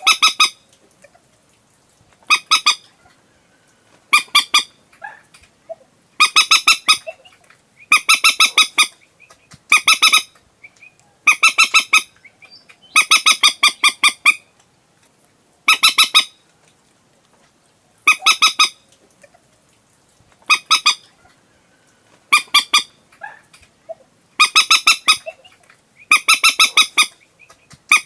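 Common moorhen calling: loud bursts of quick, harsh clucking notes, from a couple of notes to a rapid run of eight or so, repeated every one to two seconds. It is a recorded call of the kind played to lure moorhens at night.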